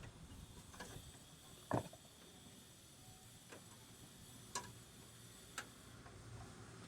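Scattered clicks and light knocks of hand tools on metal parts, five or so at uneven intervals, the loudest about two seconds in.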